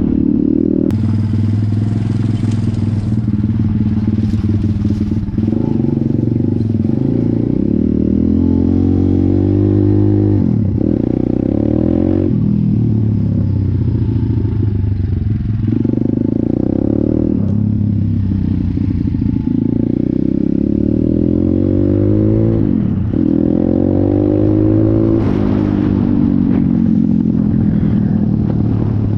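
Small pit bike's single-cylinder four-stroke engine running under way, its revs dropping sharply and climbing again several times.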